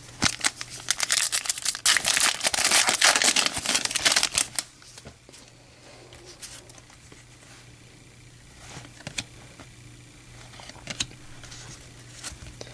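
Foil wrapper of a baseball card pack crinkling and tearing as it is ripped open, a dense crackle for about four and a half seconds. Then quieter handling of the cards, with a few soft clicks as they slide against each other.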